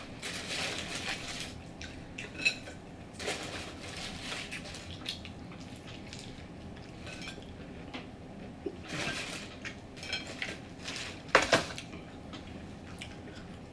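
Tabletop clatter of food containers and utensils being handled: rustling, light clinks and knocks, with a sharper knock near the end.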